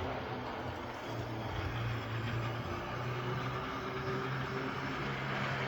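HO scale Athearn blue box locomotive running on the layout, its electric motor and gears giving a steady drone while the wheels roll on the rails.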